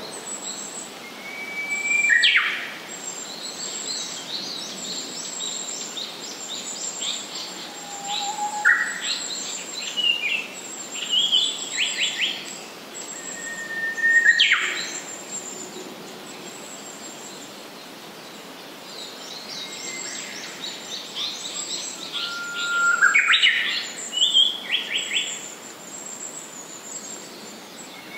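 Japanese paradise flycatcher singing: three loud song phrases, each a short held whistle that breaks into a quick rising sweep, with softer chirps between them.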